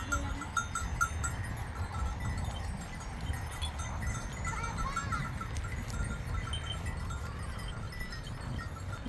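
A flock of sheep and goats: small livestock bells clinking in an uneven run, with a short bleat about halfway through, over a low rumble.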